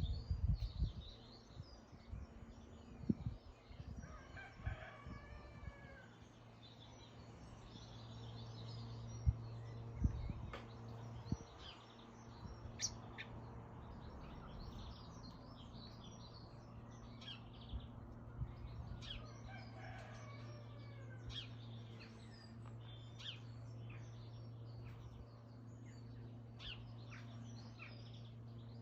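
Small garden birds chirping, with a rooster crowing twice about fifteen seconds apart over a steady low hum.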